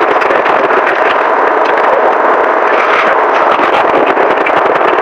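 Close-miked chewing and crunching of a chocolate-coated ice cream bar: a loud, dense, unbroken crackle.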